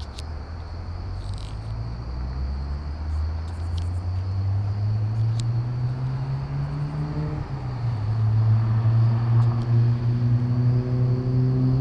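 1990 Mazda Miata's 1.6-litre four-cylinder through a newly installed Enjuku ISIS cat-back exhaust, accelerating: the exhaust note climbs in pitch, drops at an upshift about seven and a half seconds in, then climbs again, growing louder.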